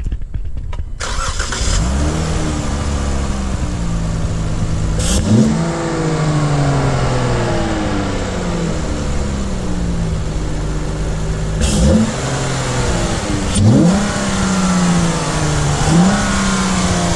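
2012 Dodge Challenger SXT's 3.6-litre V6 running through a Borla Type S cat-back exhaust. Its note flares and settles about two seconds in, then the engine is blipped four times, each rev rising sharply and falling back to idle.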